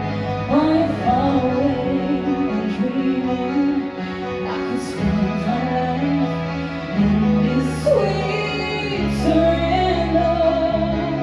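A singer performing a ballad with instrumental accompaniment. The sung notes slide and bend over held accompaniment chords that change every couple of seconds.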